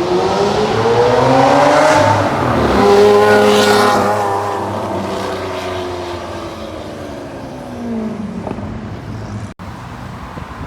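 Lamborghini Aventador's V12 through a straight-piped Fi exhaust accelerating hard, rising in pitch, with a gear change about two and a half seconds in. It then pulls away, its note falling and fading over several seconds. The sound cuts out for an instant near the end.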